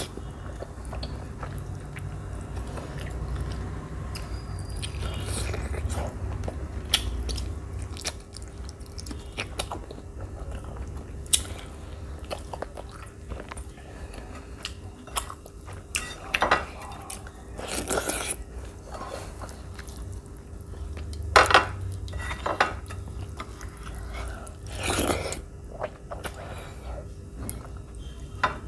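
Close-up chewing and mouth sounds of a person eating rice and chicken curry by hand, with irregular wet clicks and smacks and fingers mixing rice against the plate. A handful of louder sharp sounds stand out in the second half.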